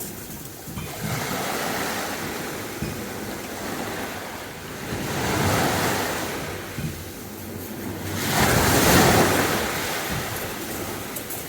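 Sea waves breaking and washing up a beach. There are several surges: a smaller one about a second in, another around five and a half seconds, and the loudest at about eight to nine seconds.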